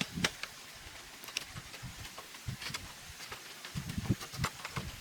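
Irregular clicks, taps and dull low thuds, scattered with no steady rhythm, with a cluster of thuds about four seconds in.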